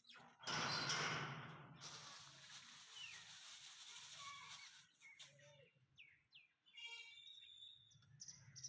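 Small birds chirping now and then, with a short burst of rustling noise about half a second in that fades away over the next few seconds.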